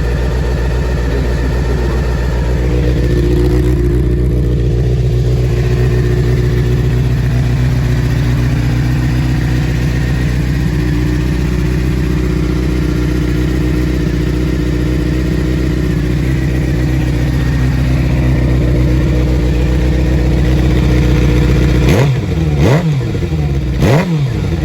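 Suzuki GSX-R600's inline-four engine running steadily through a Two Brothers aftermarket exhaust. Near the end the throttle is blipped twice, the revs rising sharply and falling back each time.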